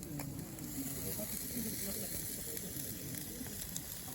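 Pacific saury sizzling on a gas grill, with a steady hiss and scattered small pops as the fat spits.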